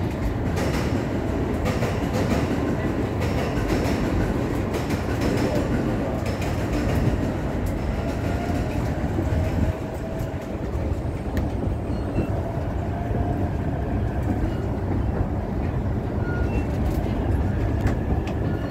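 E233 series 3000 electric train heard from inside the passenger car as it gets under way: a steady rumble of wheels on rail with scattered clicks from the rail joints, and a faint motor whine slowly rising in pitch as it picks up speed.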